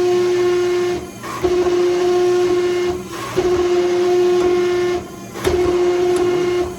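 Small 12-ton Coal Iron Works hydraulic forging press running with a steady whine, dropping out briefly about every two seconds as the press cycles while it squeezes hot steel.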